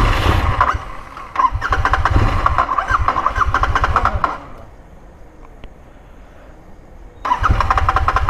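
Royal Enfield Continental GT650's 648 cc parallel-twin being started on a tank run dry of petrol. It runs briefly with a short falter, dies about four seconds in, then fires and runs again a few seconds later.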